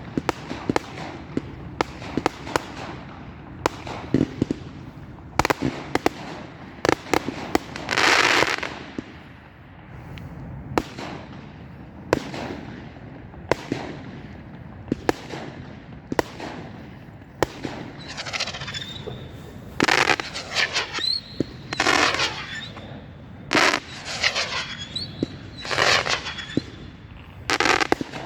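Fireworks going off in quick succession: sharp single bangs throughout. Longer bursts of rapid reports come about eight seconds in and repeatedly through the last ten seconds, some with short whistling tones.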